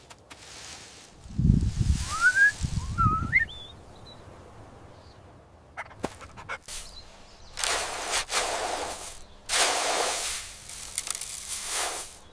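A bird chirps with short rising calls over two low thuds early on. In the second half come several long rustling swishes, each about a second long.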